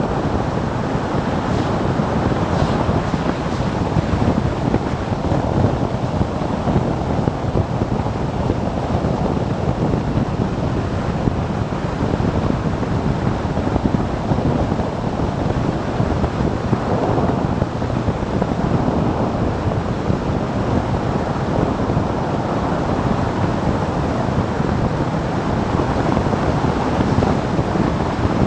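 Steady wind rushing over the microphone of a camera on a moving motorcycle, with the bike's running drowned in the wind noise.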